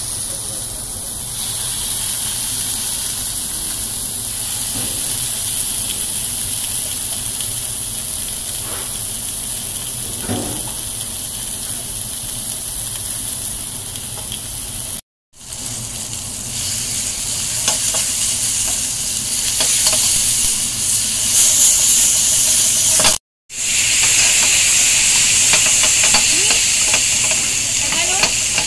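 Chicken pieces frying in a steel skillet over a gas flame: a steady sizzle, louder in the second half, with clatters of the pan being moved and tossed near the end. The sound cuts out for an instant twice.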